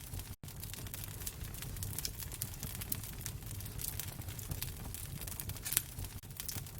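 Wood fire crackling in a fireplace: scattered snaps and pops over a low, steady rumble, with one louder snap near the end. The sound cuts out for an instant about half a second in.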